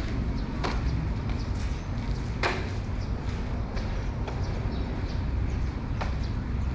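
Scattered footsteps and sharp clicks of people walking on a footbridge, over a steady low rumble.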